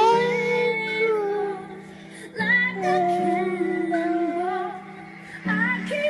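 A two-year-old child singing: two drawn-out phrases with wavering, sliding notes and a short pause between them, over a steady low drone.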